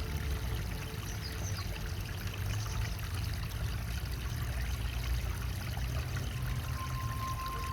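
Water of a garden pond's waterfall pouring and splashing steadily into the pond. A faint steady high tone joins near the end.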